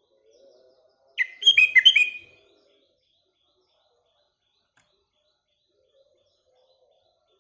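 Sooty-headed bulbul (kutilang) calling: one quick burst of about six chirping notes, each sliding downward, lasting about a second and starting about a second in.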